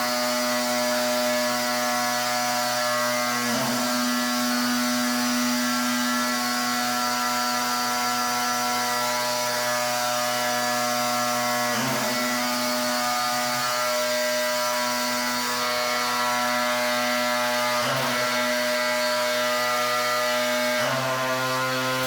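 Pressure washer running: a steady motor hum under the hiss of the water jet, the hum's pitch dipping briefly four times.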